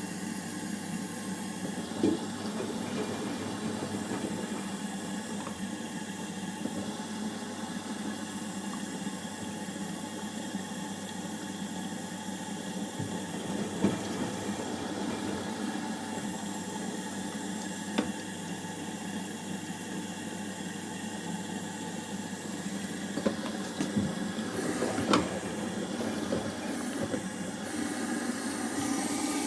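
LG washing machine running with water moving through it: a steady watery rush over a faint motor hum, broken by a few sharp clicks.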